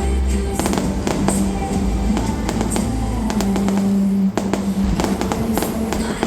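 Fireworks going off in a rapid series of sharp bangs and crackles, with loud music playing along with them.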